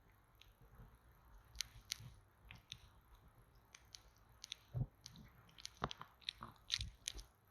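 Faint, irregular close-up clicks and soft taps from a bamboo stick poked and pressed against the microphone, ASMR-style, growing busier and louder in the second half with a few dull thumps.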